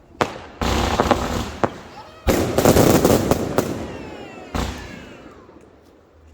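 Fireworks going off: a series of sharp bangs, with a long crackling burst about two seconds in, the loudest part, and whistles falling in pitch around four to five seconds in.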